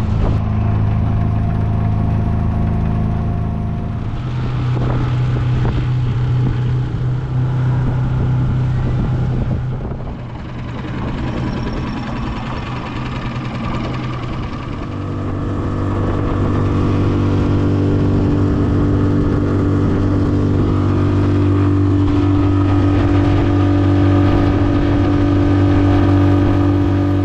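Small boat's motor running under way, its note and loudness shifting a few times as the throttle changes, louder in the second half.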